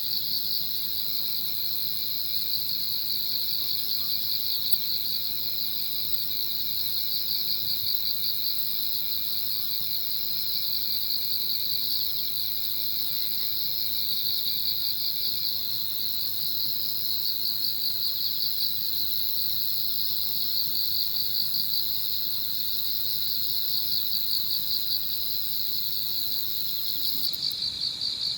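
An evening chorus of insects chirping continuously: a dense, high-pitched, slightly pulsing trill, with a fainter, lower-pitched insect that stops about halfway through.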